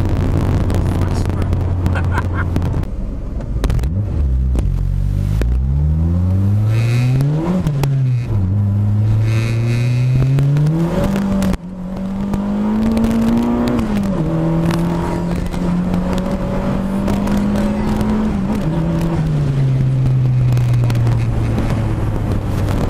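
Turbocharged Honda Civic D16Z6 1.6-litre four-cylinder heard from inside the cabin. It runs steadily, then the revs climb hard twice with a quick drop at each gear change. A third climb levels off into a steady hold, and the revs then fall away as it slows.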